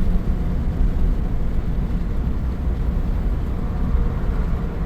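Vehicle driving along a road: a steady, low rumble of engine and tyre noise.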